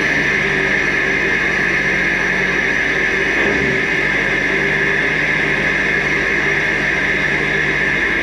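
Jeep Cherokee XJ engine idling steadily just after being started, with a steady airy hiss over it.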